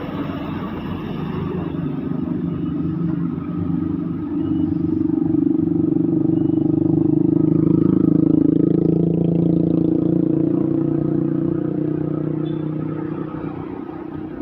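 A large diesel road vehicle driving past close by. Its engine drone builds to its loudest about eight seconds in, then fades as it moves away.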